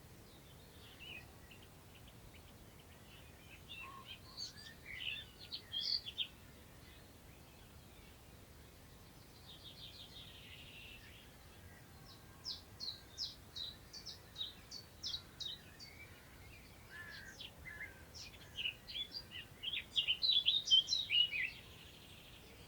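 Songbirds singing in separate bursts of quick, high notes over a faint, steady low wind noise. The loudest, densest phrase comes near the end and stops abruptly.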